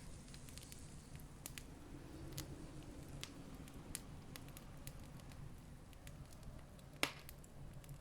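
Campfire crackling, with scattered sharp pops and one louder snap about seven seconds in, over a faint low steady rumble.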